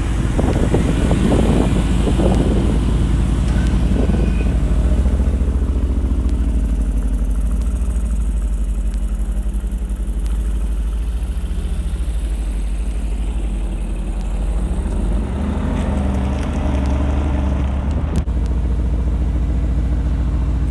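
Mercedes-AMG GT R's 4.0-litre twin-turbo V8 running at a steady idle through its performance exhaust, a little busier in the first few seconds.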